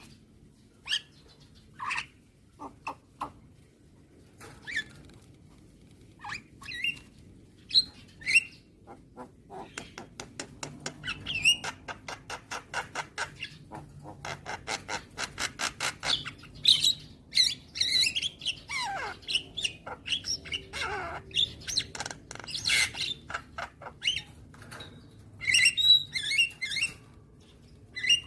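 Javan myna (jalak kebo) singing a varied song of separate harsh calls and chirps. About ten seconds in it switches to a fast rattling run of clicks, followed by whistled notes that glide downward and more squawky calls.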